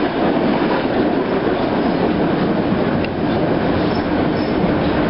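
Streetcar in motion, heard from on board: a steady rumble and rattle of the car and its wheels on the rails.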